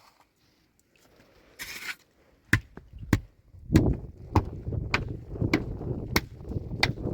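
A regular series of sharp chopping strikes, about one every 0.6 seconds, starting about two and a half seconds in, over a low continuous rumble. A short hiss comes just before the strikes begin.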